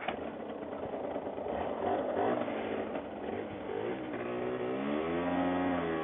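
Engine of a 50cc Gilera motorcycle, a small two-stroke, running and revving up, its pitch rising about four seconds in and then holding steady.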